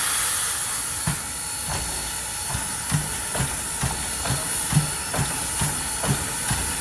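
Steam locomotive, former Norfolk and Western 4-8-0 No. 475, hissing steam and then working, its exhaust beats coming about twice a second and quickening slightly.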